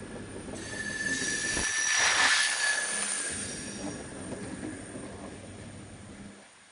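Railcar MT 15411 passing at close range, its wheels squealing on the rails in a thin high tone over a rushing hiss that swells to a peak about two seconds in and then fades. A low rumble runs underneath.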